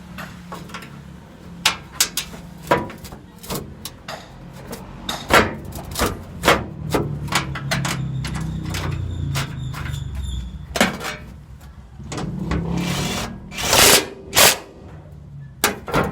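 Irregular metal knocks and clanks of hand tools and heavy parts being worked while a truck transmission is fitted, over a low steady hum.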